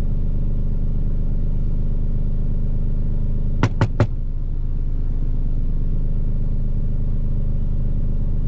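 Steady low hum of an idling truck engine, with three quick sharp clicks close together about three and a half seconds in.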